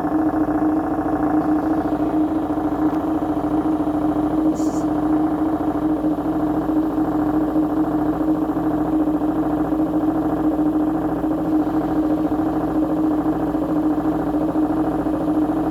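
Washing machine on its spin cycle, the drum spinning at speed with a steady motor whine and hum that holds one pitch throughout.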